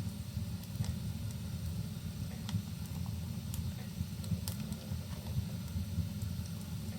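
Wood fire crackling in a fireplace: a steady low rumble with a handful of sharp pops scattered through it, the loudest about four and a half seconds in.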